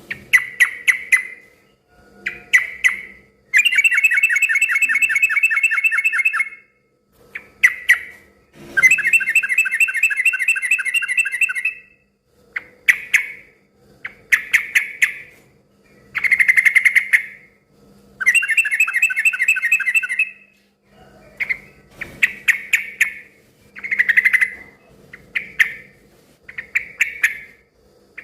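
Yellow-vented bulbul singing noisily: short bubbly chirping phrases again and again, broken three times by a long, fast chattering run of about three seconds.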